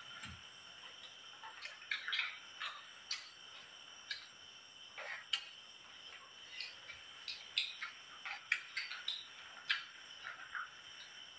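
Steady chorus of night insects such as crickets, with many short clicks and taps scattered through it.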